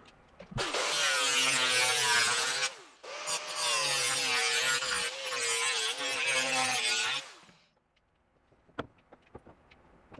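Handheld power tool cutting sheet steel for a marker-light patch panel: it spins up with a rising whine and cuts in two long runs, its pitch wavering under load, then winds down. A few sharp clicks follow near the end.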